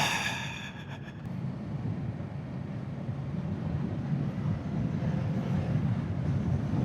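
Kawasaki Z650's parallel-twin engine running under way, with road and wind noise, gradually getting louder.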